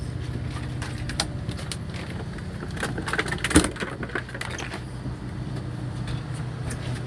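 A fishing boat's onboard engine humming steadily, with scattered clicks and knocks of gear on deck and one sharp knock about three and a half seconds in.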